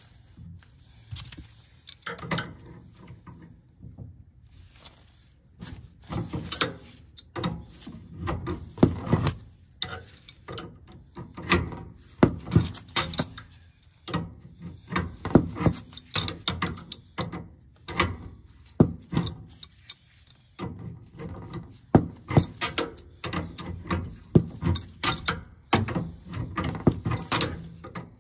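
Wrenches clinking and knocking on the metal gas-line fittings of a furnace as the flexible gas connector is worked loose from the gas valve. The sound is a run of irregular metallic clicks and clanks, sparse at first and then close together from about six seconds in.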